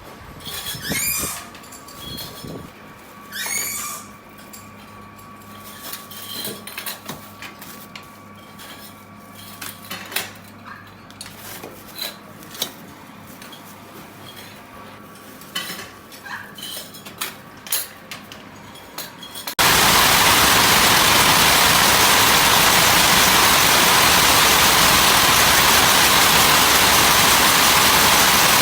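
Scattered metallic clinks and knocks with a couple of short squeaks. About two thirds of the way through, a loud, steady rushing noise cuts in abruptly.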